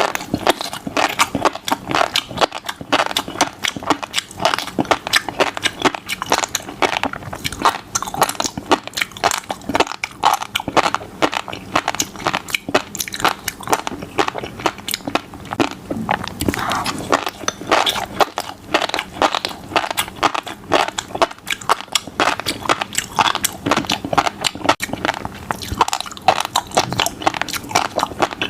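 Close-miked eating of fish roe: a dense, continuous crackle of tiny pops as the roe beads burst while being chewed.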